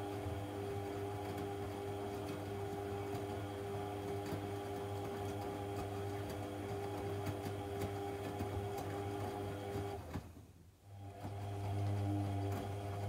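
AEG Lavamat 1400 washing machine running, its motor humming steadily with a few steady tones. About ten seconds in, the motor cuts out for about a second, then starts up again.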